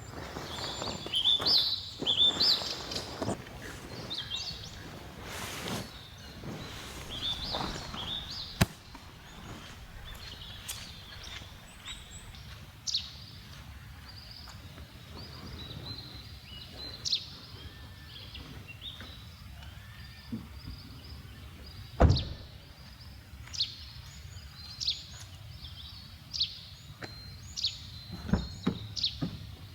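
Small birds chirping in short repeated calls, over steady outdoor background noise. A few sharp knocks stand out, the loudest about eight seconds and twenty-two seconds in.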